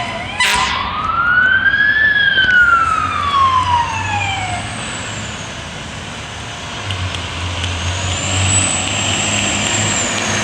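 Fire truck siren wailing, one slow rise and fall over about four seconds after a short loud burst at the start, over the steady low hum of a heavy engine. A second, higher siren wail rises and falls near the end.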